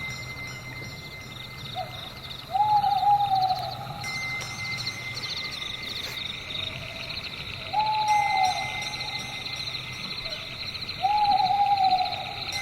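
An owl hooting three times, each hoot a drawn-out note that rises and then slowly falls, about two and a half, eight and eleven seconds in; the first and last are each led by a short softer note. A steady, high, pulsing chirr runs underneath throughout.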